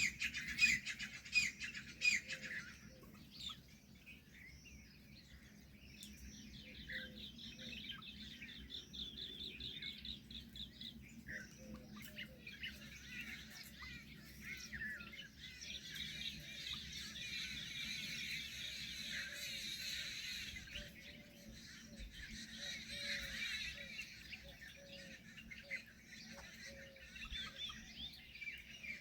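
Several birds chirping and calling together: quick repeated chirps at first, then a fast, even trill held for about four seconds, then a dense chatter of many overlapping calls.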